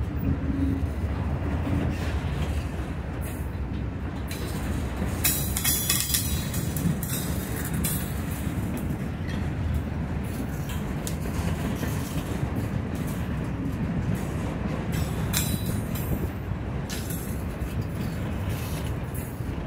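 Freight train of autorack cars rolling past: steady rumble and clatter of steel wheels on rail, with a brief high-pitched wheel screech about five seconds in.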